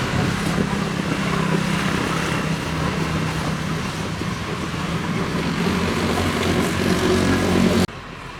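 A motor running steadily, a low even hum over a hiss. It cuts in sharply and stops abruptly near the end.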